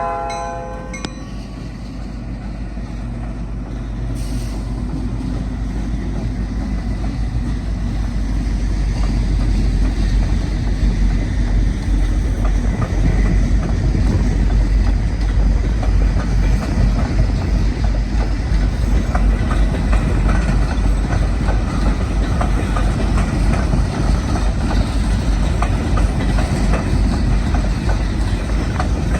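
A freight locomotive's horn chord cuts off about a second in, then the DMVW coal train rolls past with a steady heavy rumble that grows louder over the first ten seconds, with wheels clicking over the rail joints.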